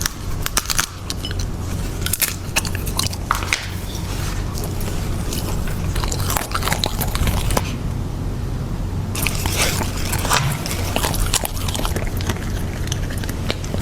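Dachshund puppy crunching and chewing a carrot close to the microphone: irregular crisp bites and crunches, easing off briefly just past the middle before resuming.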